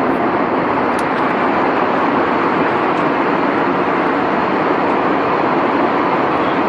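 Steady, even rushing noise of a vehicle in motion, with no change in level.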